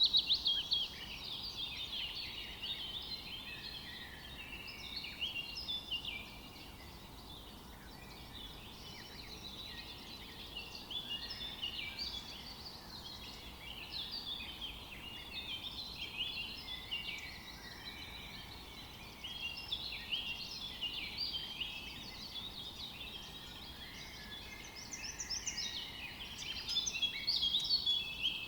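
A chorus of many small birds chirping and twittering, the calls dense and overlapping, over a faint steady hiss. It is louder near the start and again near the end.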